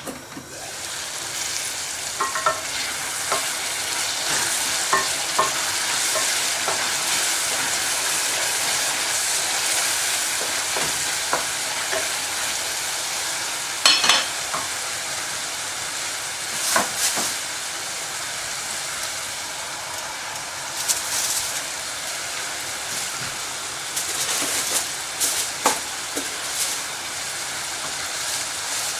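Chopped onions frying in oil in an aluminium pot on a gas hob, a steady sizzle that swells over the first couple of seconds as the lid comes off. A wooden spoon stirs and scrapes through them, knocking sharply against the pot now and then, loudest about halfway through.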